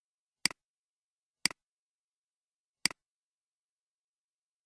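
Three sharp clicks of a computer mouse button, each a press followed quickly by its release.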